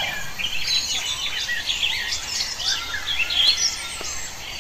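A chorus of wild birds calling together, with many quick chirps and whistles overlapping, most sliding up or down in pitch, over a faint steady background hiss.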